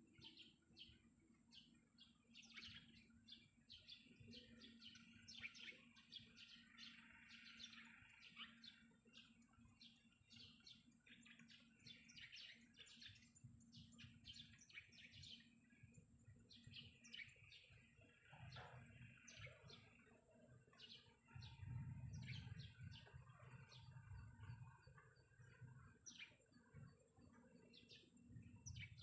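Faint, busy chirping of several small birds, with a muffled low rumble for a few seconds about three-quarters of the way through.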